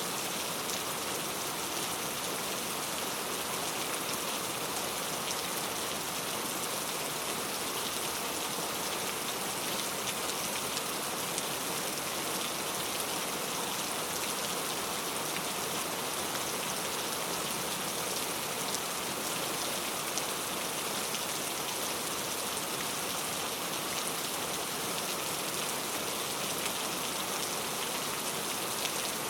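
Steady rain falling and pattering on surfaces, an even hiss with many small drop ticks that keeps a constant level throughout.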